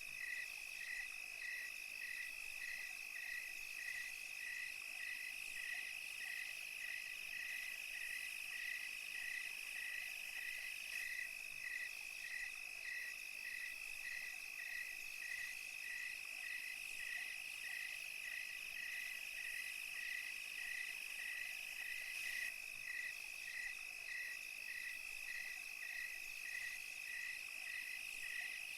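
Night chorus of crickets and other insects: a steady high trill with a separate chirp pulsing evenly about twice a second.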